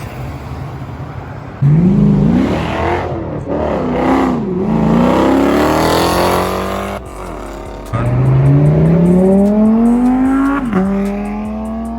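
Car engine accelerating hard in two separate runs. Each time the note climbs in pitch and drops back at each upshift, starting suddenly about a second and a half in and again about eight seconds in.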